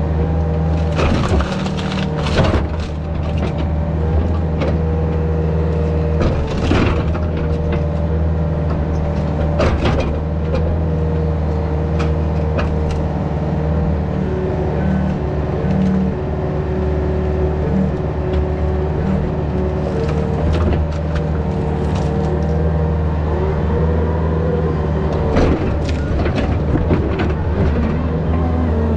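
Yanmar VIO50 mini excavator's diesel engine running steadily under working load with a hydraulic whine, broken by occasional sharp knocks and cracks.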